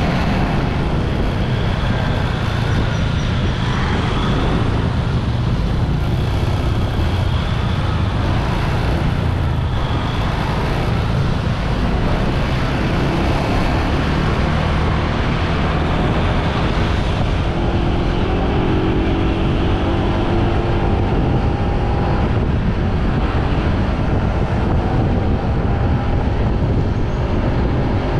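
Steady rush of wind and road noise from a motorbike on the move, with traffic around it. Faint engine tones rise and fall in the middle of the stretch.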